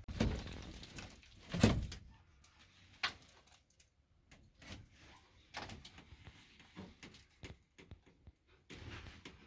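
Knocks and rattles of work inside a van's interior, with one loud thud about a second and a half in and a sharp click about a second later, followed by scattered light clicks and handling noises.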